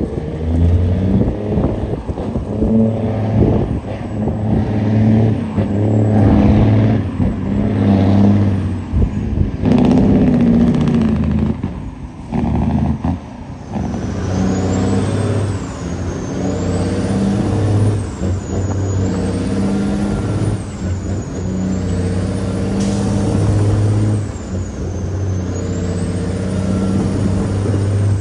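Caterpillar 6NZ inline-six diesel in a Kenworth W900L running hard under a 50-ton load, a deep steady engine drone. Over the first half its level swells and dips repeatedly.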